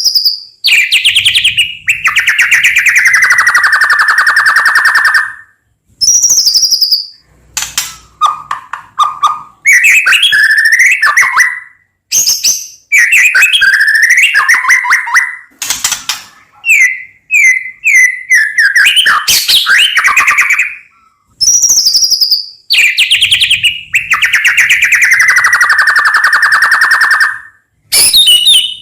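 White-rumped shama (murai batu) singing loudly in phrases of whistles and very fast trills. Several phrases open with a high whistle that drops into a long rapid trill, with short breaks between phrases.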